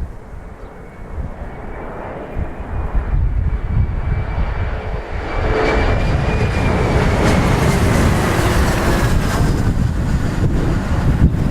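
Bombardier CRJ700 regional jet's twin rear-mounted turbofans whining as it lands, the high tone slowly falling in pitch and the engine noise swelling louder about halfway through. Gusty wind rumbles on the microphone underneath.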